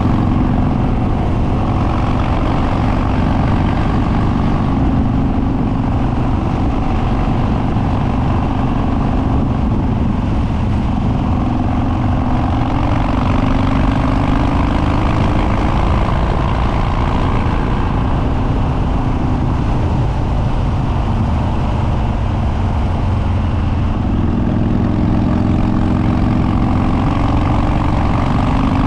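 Harley-Davidson Dyna Street Bob's Twin Cam V-twin, with stage 2 cams, running loud through unbaffled dual exhausts under way, its note rising and falling gently with the throttle.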